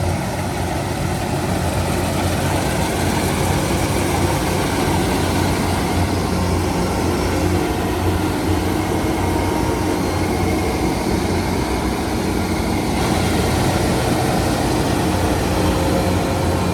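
A heavy engine running steadily with an even low drone.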